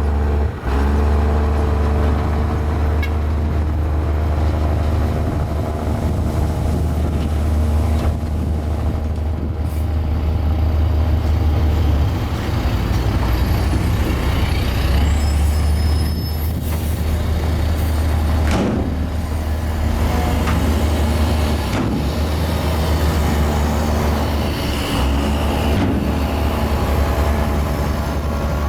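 Mini Komatsu bulldozer's diesel engine running under load, its note dipping and recovering a few times as it works. A few knocks and some brief high squeals come through around the middle.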